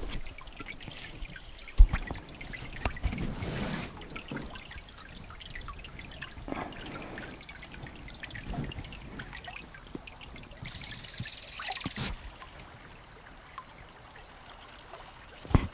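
Canoe paddling: water splashing and trickling off the paddle blade with each irregular stroke. There are occasional knocks, the loudest about two seconds in and another near the end.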